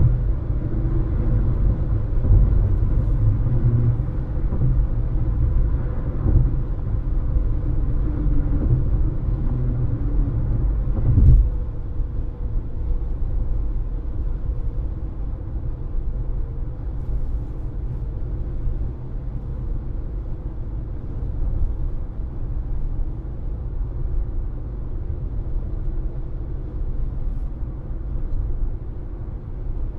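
Road and tyre noise of a moving car heard from inside the cabin: a steady low rumble, heavier for the first eleven seconds and ending in a single thump, then a steadier, slightly quieter drone.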